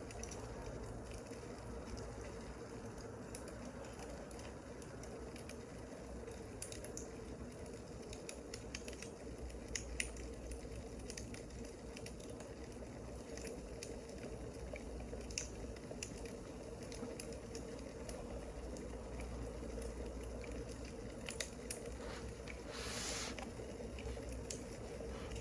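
Wood fire crackling, with scattered sharp pops over a soft steady hiss and a brief hissing burst near the end.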